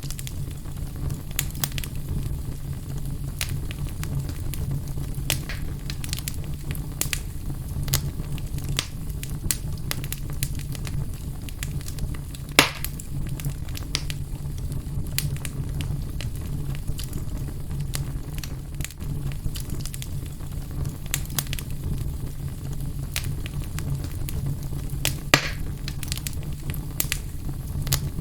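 Fire burning in a fireplace, crackling steadily with frequent small snaps over a low, even rumble of the flames. Two louder pops stand out, one about halfway through and one near the end.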